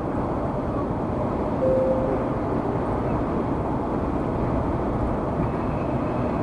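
Steady road, tyre and engine noise of a car cruising at freeway speed, heard from inside the cabin, with a brief faint steady tone about two seconds in.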